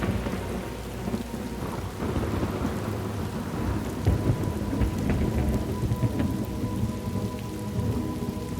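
Steady rain falling with low rolling thunder rumbling through it; a thunder crash that broke just before is dying away at the start.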